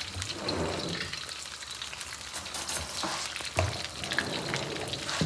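Breaded chicken tenders shallow-frying in hot oil in a wok: a steady sizzle with many small crackles and pops.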